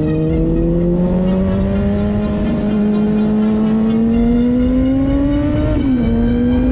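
2007 Honda CBR600RR's inline-four engine through a MIVV aftermarket exhaust, running at high revs, its pitch climbing steadily. Near the end the pitch drops briefly and climbs again. Wind rumble on the microphone underneath.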